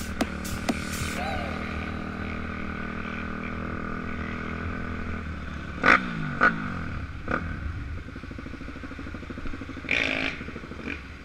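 Pit bike engine running steadily, then its pitch falls about five seconds in, with a few sharp knocks and a short noisy burst near the end.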